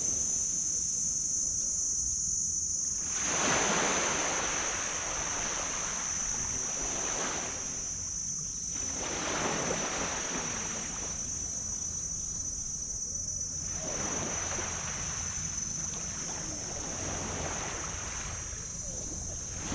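Small tropical waves breaking and washing up a black sand beach, the wash swelling and fading about four times. A steady high-pitched hum runs under it throughout.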